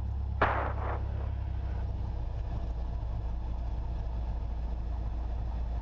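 Cessna 172SP's four-cylinder Lycoming engine running steadily at low taxi power, a deep hum heard inside the cabin. About half a second in, a short loud burst of crackling noise cuts in and fades within about half a second.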